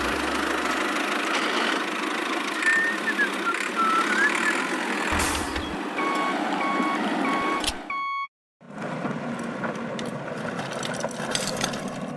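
A vehicle reversing beeper sounds four quick, evenly spaced beeps, about two a second, over a steady mechanical whirr, and stops with a sudden cut. A short chirping whistle comes a few seconds earlier.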